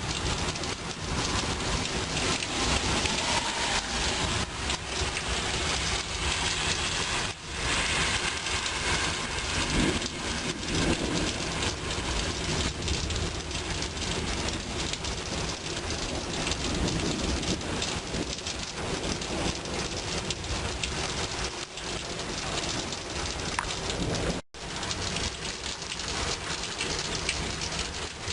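Heavy rain falling steadily during a thunderstorm, with thunder rumbling in the background at times. The sound cuts out briefly twice, about seven seconds in and near the end.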